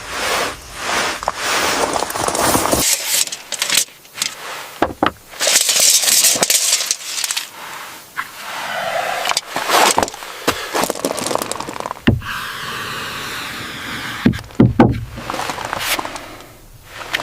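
An uneven run of scraping and rattling noises broken by sharp clicks and knocks, changing every second or two.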